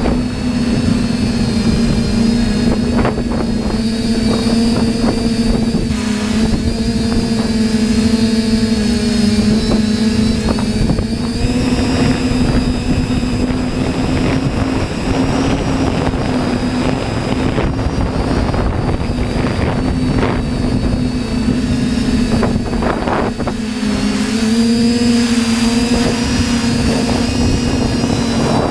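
TBS Discovery quadcopter's electric motors and propellers running with a steady buzzing hum, the pitch wavering and dipping briefly a few times as the motors adjust, with wind buffeting the microphone.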